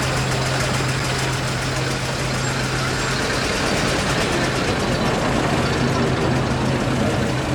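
Vintage fire engine engines running at low speed, with a steady low hum that fades out about three and a half seconds in and comes back near the end.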